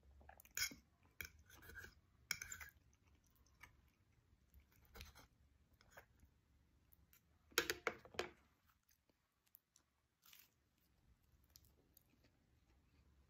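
Someone eating: faint chewing and crunching with scattered small clicks, the loudest cluster about eight seconds in.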